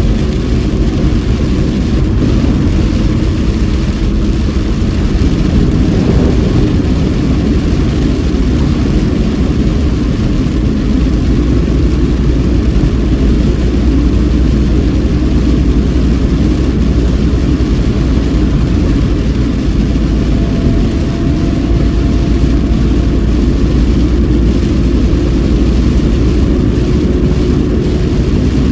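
Steady in-cabin noise of a car driving on a rain-soaked road in a typhoon downpour: engine and tyre rumble with rain on the car, a faint steady hum over it.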